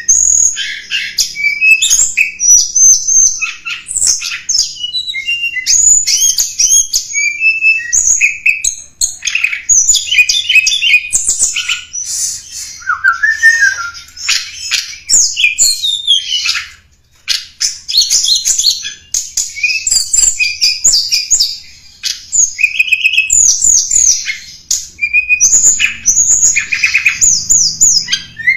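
Tledekan gunung songbird singing a rapid, varied run of high chirps, whistles and trills, almost without a break except one short pause partway through.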